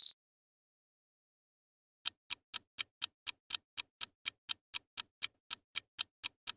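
Beetle stridulating: an even series of short, sharp clicks, about four a second, starting about two seconds in.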